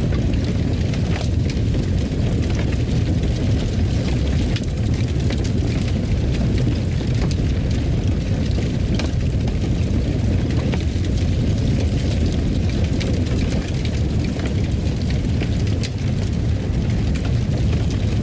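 Fire in a fireplace: a steady low rumble with frequent small crackles and pops scattered over it.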